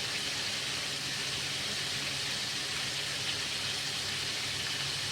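Duck pieces frying in hot oil in a pan, a steady sizzle.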